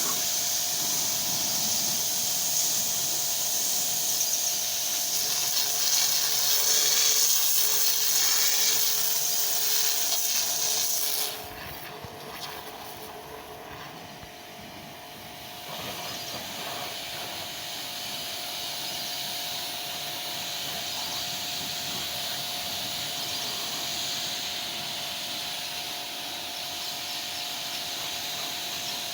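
High-pressure car-wash water spray hissing loudly, then cutting off suddenly about eleven seconds in, leaving a quieter hiss over a steady machine hum.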